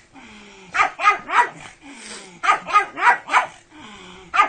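Pug barking in short, sharp runs, three barks and then four, with a low, falling whine between the runs.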